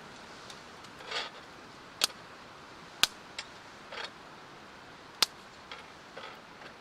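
A few sharp clicks or taps, the loudest about 2, 3 and 5 seconds in, among short soft rustling or swishing sounds of something being handled.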